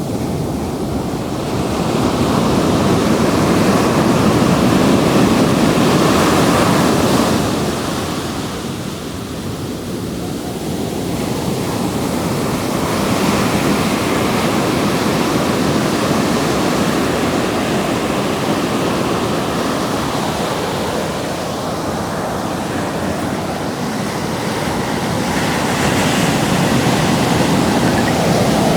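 Ocean surf: waves breaking and washing in on a sandy beach, the rush of white water swelling and easing in slow surges several seconds apart.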